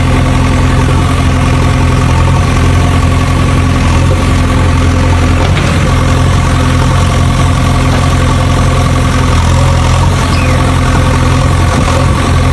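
Tractor engine idling steadily: a loud, even drone that holds one pitch throughout.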